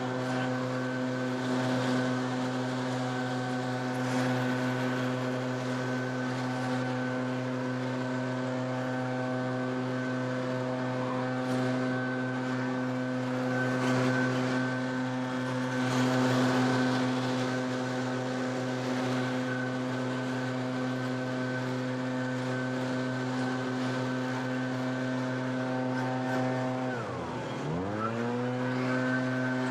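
A backpack leaf blower's engine running steadily at full throttle. Near the end the throttle is briefly let off, so the pitch drops and then climbs back up.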